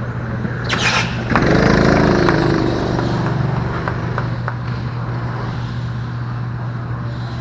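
A vehicle engine briefly rises in pitch and falls away again, about a second and a half in, over a steady low hum. A short hiss comes just before it.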